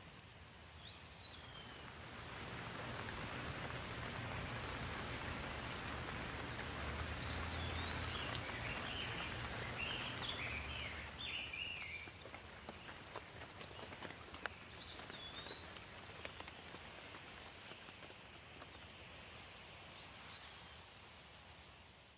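Steady rain falling, with a few short bird chirps now and then. The rain gets louder a few seconds in and eases off a little in the second half.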